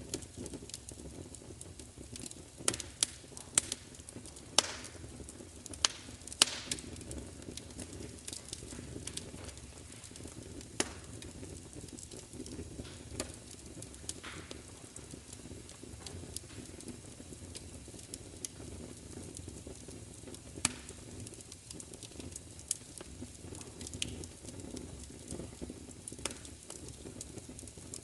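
Wood fire crackling, with irregular sharp pops over a steady low rumble of the flames. The pops come thick in the first several seconds, then more sparsely.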